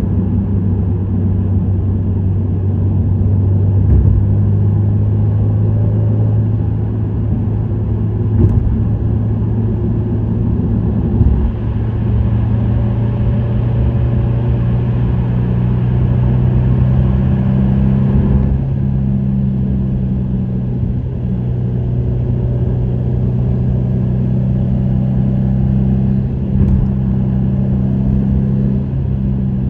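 Subaru WRX STI's turbocharged EJ20 flat-four with an STI Performance muffler running steadily at cruise, a low even drone whose pitch steps up slightly about a third of the way in, with road noise and a few short thumps.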